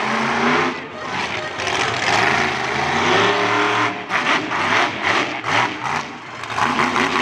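Monster truck engine revving hard, its pitch rising and falling, with a run of quick throttle blips past the middle.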